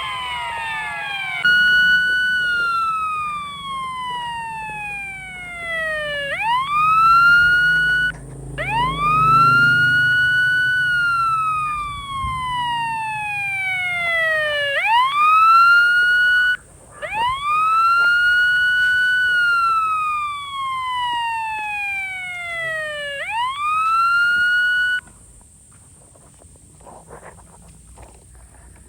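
Electronic emergency-vehicle siren wailing: each cycle rises quickly in pitch and then slides slowly down, about every eight seconds, after a brief faster warble at the start. It cuts off suddenly near the end.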